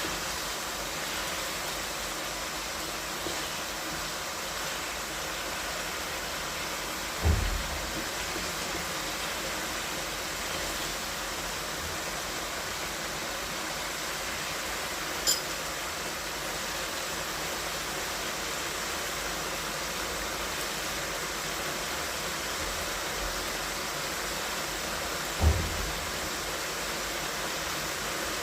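Steady hissing noise, with a low thump about a quarter of the way in, a short sharp click about halfway, and another low thump near the end.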